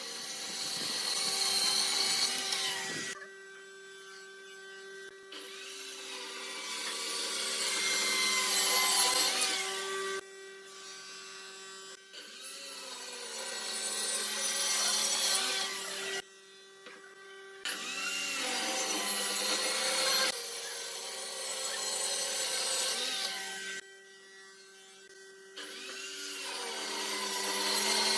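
A power tool working wood in about five passes, each growing louder and then stopping abruptly, its pitch wavering under load, over a steady hum.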